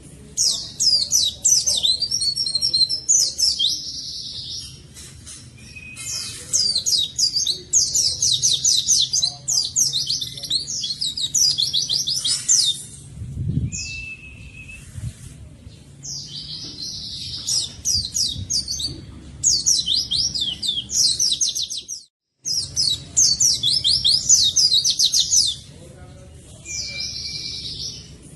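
A white-eye (pleci) in full song: long, rapid runs of high, fast chirping notes, phrase after phrase with short pauses between them. The sound cuts out completely for a moment about two-thirds of the way in.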